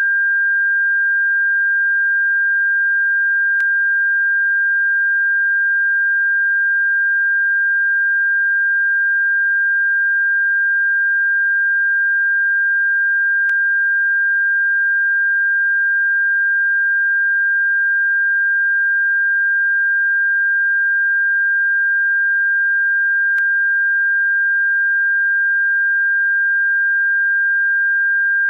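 A steady, unbroken electronic sine tone, high-pitched at about 1.6 kHz, played as a bird-repellent sound. A faint tick comes about every ten seconds.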